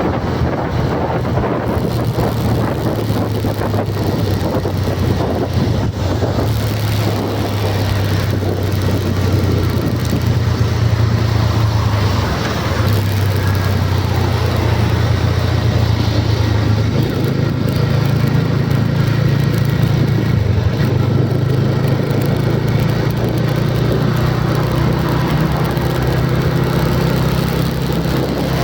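A motor vehicle's engine running with a steady low drone, its pitch stepping up about 17 seconds in.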